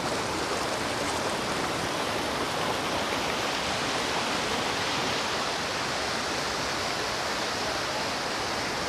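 Steady, loud rush of water from a waterfall.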